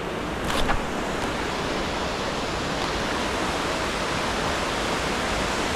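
Waterfall rushing into a river pool: a steady, unbroken wash of falling water, with one short knock about half a second in.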